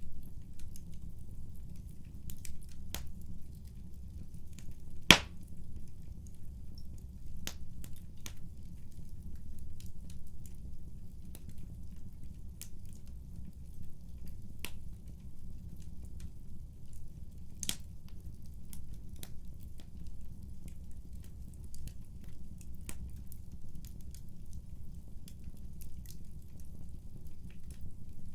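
Wood fire burning in a fireplace: a steady low rumble of flames with scattered sharp crackles and pops, one loud pop about five seconds in.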